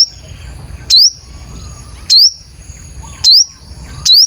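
Sunbird call, the Vietnamese 'five-colour sunbird' lure: a sharp, high chirp that sweeps upward, repeated about once a second, five times.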